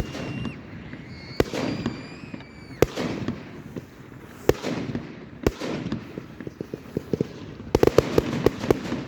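Fireworks going off: single sharp bangs every second or so, with wavering whistles in the first few seconds and a quick volley of bangs near the end.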